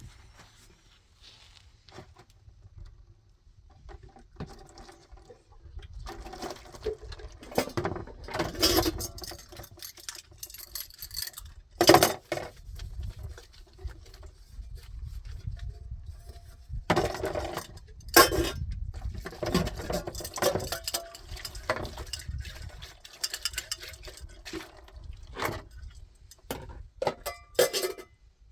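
Irregular knocks, clinks and clatter of objects being handled and set down, with a few sharp louder knocks.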